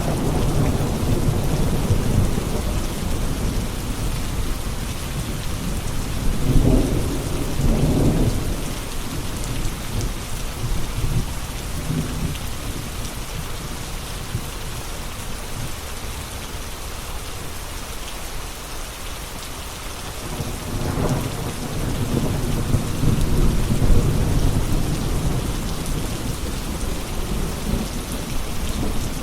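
Steady rain falling, with rolling thunder swelling up twice: about seven seconds in, and again from about twenty-one seconds.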